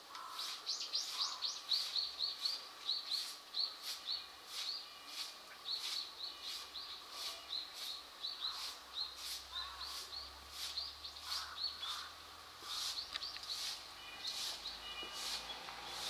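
A small bird calling in a fast, steady run of short, high chirps, two to three a second, thinning out after about eleven seconds.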